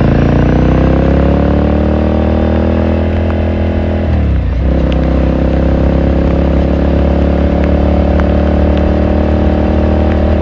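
2018 Ducati Scrambler Sixty2's air-cooled 399 cc L-twin under way, its exhaust note rising in pitch as the bike accelerates. About four seconds in the pitch drops sharply and comes back as it shifts up a gear, then the engine holds a steady cruise.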